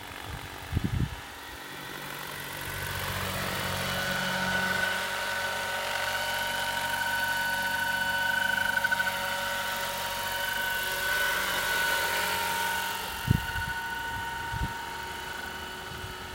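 Radio-controlled Jet Ranger model helicopter flying: a steady whine from its engine and rotors that grows louder for several seconds and then fades. A couple of brief thumps are heard, about a second in and near the end.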